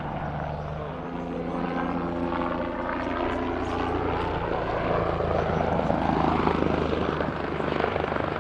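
Low-flying aircraft passing by: a steady engine drone with a sweeping, phasing whoosh that builds to its loudest about six seconds in.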